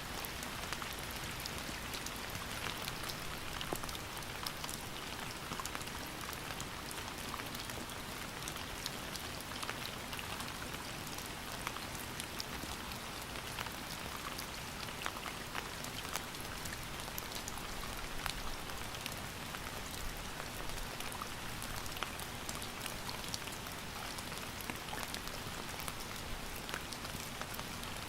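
Steady rain, an even hiss dotted with the ticks of single drops striking a surface.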